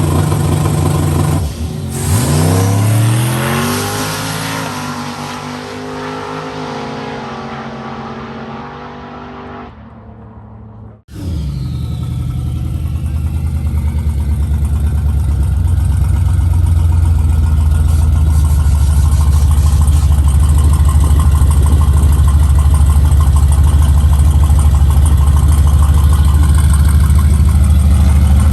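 Turbocharged diesel pickup launching and accelerating hard down the drag strip, its engine note climbing through the gears and fading into the distance. After a sudden cut, a loud steady low engine drone from a truck running close by, slowly getting louder.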